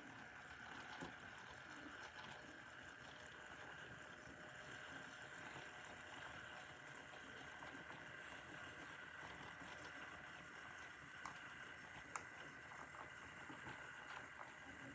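Model trains running on a layout, heard faintly: a steady motor hum with a few light clicks.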